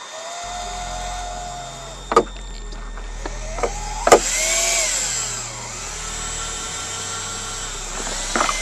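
Small electric motor of an oil-priming pump whining as it pushes oil into a GM 3.6 L V6 through the oil pressure sensor port. Its pitch sags and rises with the load, over a low hum, with a few sharp clicks about two and four seconds in.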